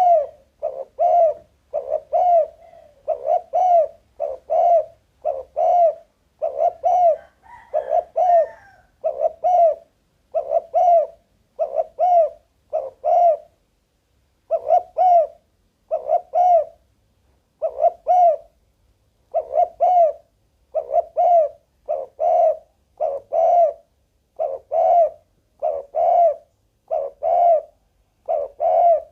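Spotted dove cooing: a long, regular run of loud repeated coos, a little over one a second, with two short breaks partway through.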